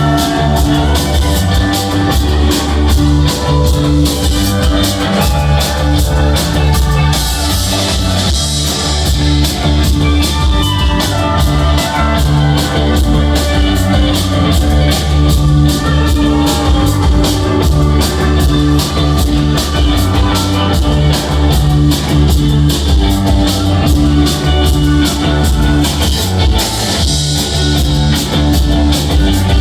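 A live rock band jamming: electric guitars over bass and a drum kit keeping a steady beat of cymbal strokes.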